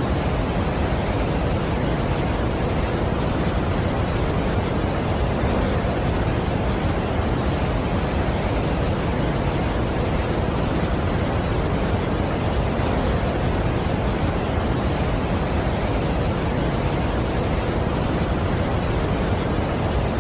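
Steady rushing of a large waterfall, an even wash of falling water that is strongest in the low end, with no changes or separate sounds.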